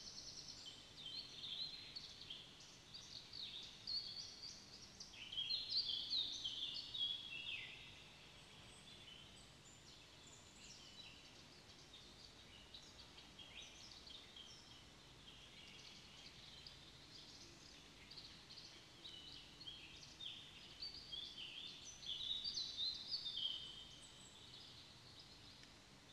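Small birds singing in quick, chirping phrases, louder about five to seven seconds in and again near the end.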